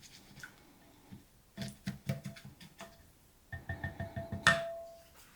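A spoon stirring a thick rice and cream-soup mixture in a bowl, clinking against the bowl about four or five times a second in two short runs. The loudest is a sharp ringing tap on the bowl about four and a half seconds in.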